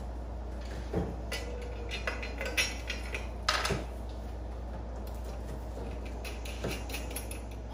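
Light metallic clinks and knocks of wire cage parts being fitted together by hand: scattered taps, with the loudest cluster about three and a half seconds in.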